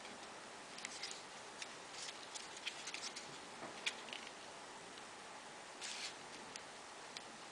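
Faint, scattered rustles and small clicks of folded triangular paper origami modules being handled and slotted onto each other. There are more of them in the first few seconds and a brief cluster again about six seconds in.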